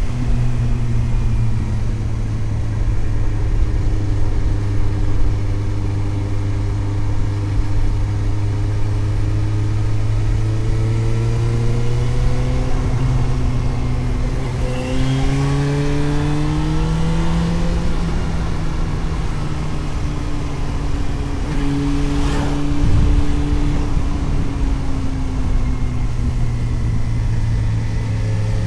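Suzuki GSX-S750 inline-four motorcycle engine heard onboard while riding, over wind and road noise: it runs at steady revs, climbs in pitch under throttle about halfway through, then eases back and settles. There is a sharp click near the two-thirds mark.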